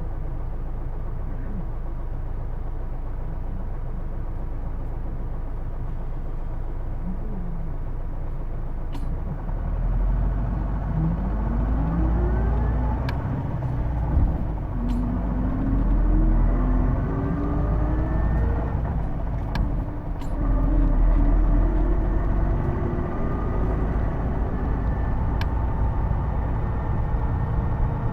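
Hino Blue Ribbon II city bus heard from inside. It runs with a steady low rumble, then about nine seconds in it pulls away louder, and a rising transmission whine climbs again and again as it goes up through the gears. This is the bus's distinctive gearbox whine, which the uploader likens to an automatic. A few faint clicks are scattered through.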